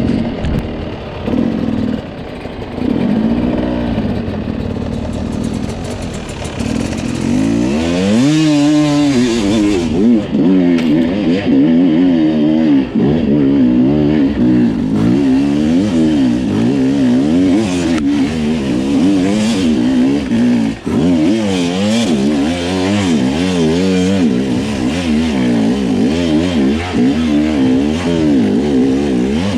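Two-stroke enduro dirt bike engine under riding, revving up and down constantly as the throttle is worked. Gentler for the first few seconds, with a sharp rev rise about eight seconds in.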